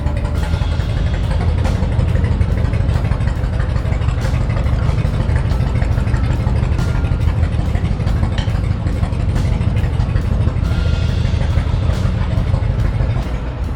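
A vehicle engine running steadily with a loud, low rumble.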